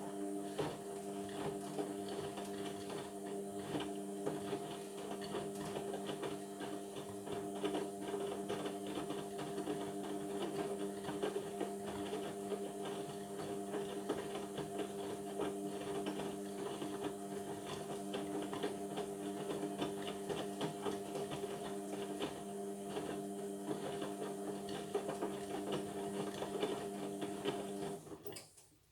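Indesit washing machine's drain pump running with a steady hum and some watery crackle, starting abruptly and cutting off near the end.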